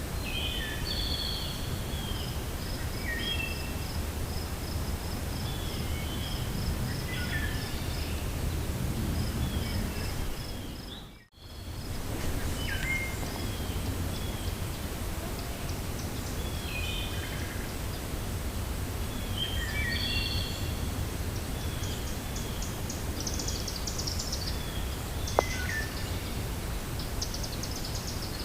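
Wind blowing steadily through a forest, with birds chirping in short repeated calls and a fast high ticking trill in the first few seconds. The sound cuts out briefly about eleven seconds in, and a single sharp click comes near the end.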